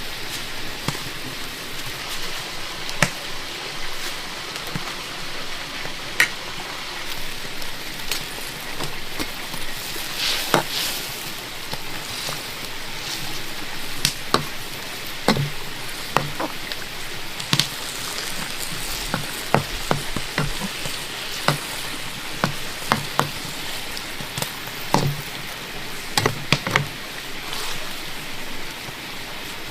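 Steady hiss of heavy rain, with irregular sharp knocks and taps scattered all through it.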